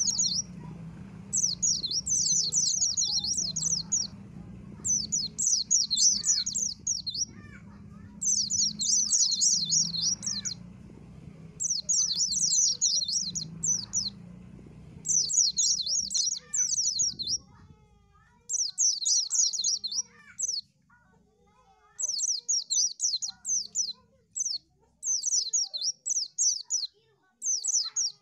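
White-eye (pleci) song: rapid, high-pitched twittering phrases, each a second or two long, repeated every couple of seconds, turning into shorter, choppier bursts in the last third. A steady low hum runs underneath and stops about two-thirds of the way through.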